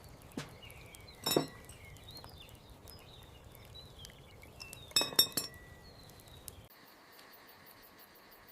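Light clinks: one about a second in and a quick run of three near the middle, over faint high chirping. A low background hum cuts off near the end, leaving faint, fast, even ticking.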